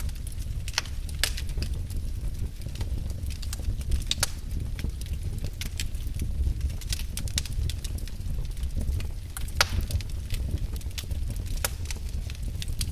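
Fireplace fire crackling: irregular sharp pops and snaps over a steady low rumble of burning, with one louder snap near the end.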